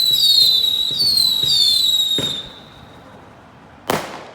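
Fireworks: several high whistles, each falling in pitch, overlapping for about two and a half seconds, followed by a bang and a second sharp bang near the end.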